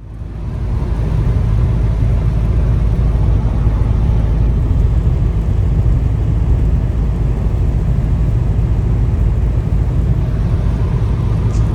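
A car running, heard as a loud, steady low rumble that fades in over the first second.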